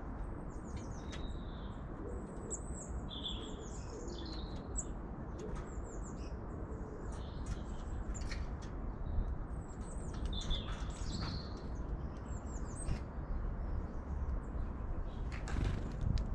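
Several small birds chirping, many short high calls and quick down-slurred whistles following one another without pause, over a steady low rumble.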